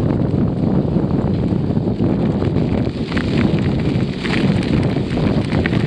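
Wind buffeting the microphone of a camera on a moving bicycle: a steady, loud rumble. Scattered small clicks and rattles run through it, thickest about halfway through.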